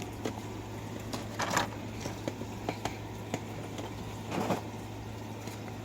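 Handling of packaged die-cast toy cars: scattered light clicks and two short rustles of the packaging, about a second and a half in and again past four seconds, over a steady low hum.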